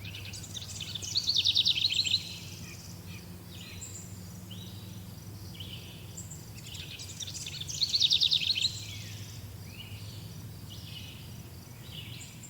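Wild songbirds singing. One bird gives a loud, fast trilled phrase about a second in and again about seven seconds later, with shorter chirps from others in between, over a steady low hum.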